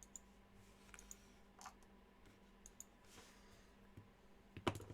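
Faint, scattered clicks of a computer mouse and keyboard, with a louder clatter of clicks near the end.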